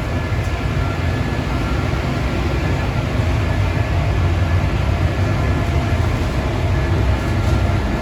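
Steady low mechanical rumble of a running machine, with a faint steady hum above it.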